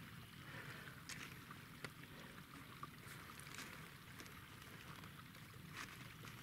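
Faint, steady water noise from the dam, with a few soft clicks scattered through.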